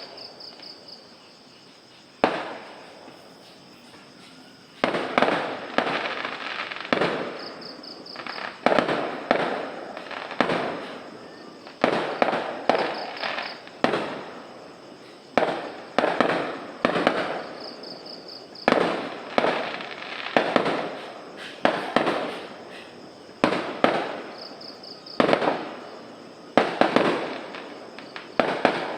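Fireworks going off in quick succession: sharp bangs roughly every one to two seconds, each trailing off in a crackle, with a short lull a few seconds in.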